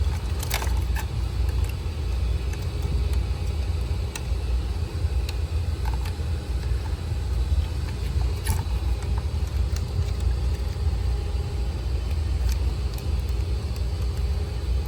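A few short, sharp clicks of plastic fuel-injector connectors being pushed onto the injectors and snapping home, over a steady low rumble.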